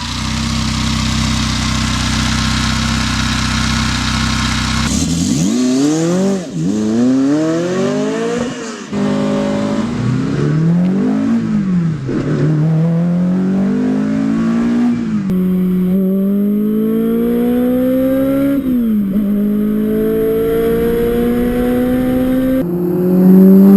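Ruf RGT-8's high-revving flat-plane V8 engine. It runs steadily for the first few seconds, then is revved and accelerated hard, its pitch climbing and dropping back again and again as it goes through the gears.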